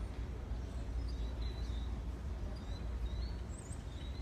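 Outdoor ambience: a steady low rumble with small birds chirping in short calls several times.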